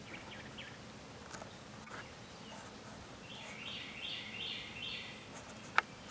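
A bird sings a short phrase of about four repeated high notes, starting about three seconds in, over a faint background. A single sharp click near the end.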